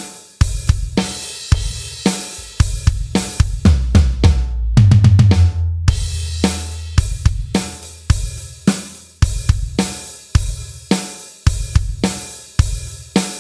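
Drum kit playing a steady rock groove: eighth notes on the hi-hat, bass drum on every quarter and a snare backbeat, with the hi-hat and kick pushed slightly ahead of the beat. About four seconds in, a fill of quick strokes runs down onto the toms, which ring low for a moment before the groove picks up again.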